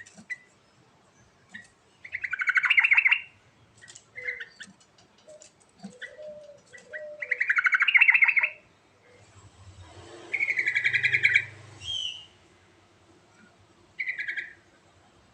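Sooty-headed bulbul (trucuk) singing: four loud bursts of quick chattering notes a few seconds apart, with softer, lower whistled notes between them.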